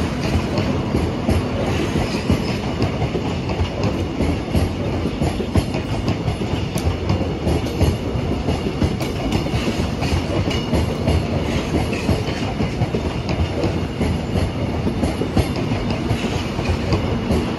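Seoul Metro Line 1 electric train rolling slowly past, a steady rumble of the cars with a continual run of wheel clicks over the rail joints.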